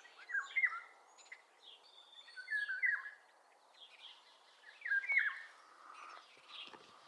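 A songbird singing fluty whistled phrases, three similar loud phrases a couple of seconds apart with fainter high notes between them, over light outdoor background noise.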